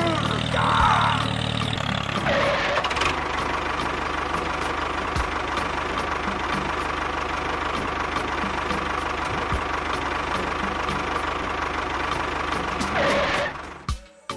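An engine running steadily with a fast, even low pulse, cutting off about 13 seconds in.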